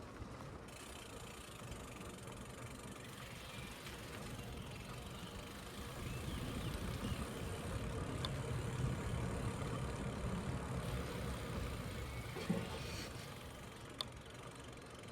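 Riding a bicycle: a steady low rumble of tyres on the road and wind on the microphone, growing louder midway, with a couple of light clicks.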